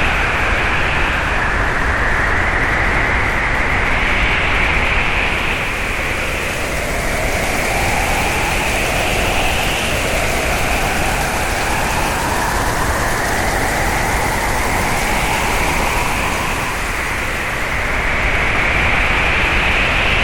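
Hurricane wind blowing in a steady rush, with a whistling tone that slowly rises and falls every few seconds.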